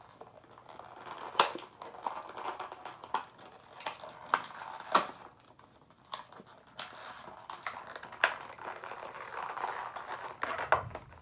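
Plastic packaging of a pack of D batteries being handled and pried at: crinkling and rustling with irregular sharp cracks and clicks.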